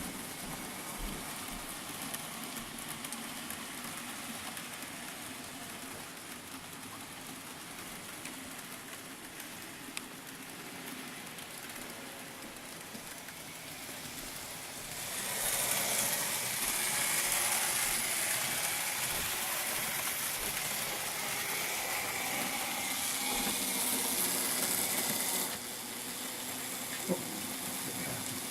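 N gauge model train running on the layout track, a steady hissing rumble of its small motor and wheels. It grows louder for about ten seconds from the middle, then drops back suddenly, with a single click near the end.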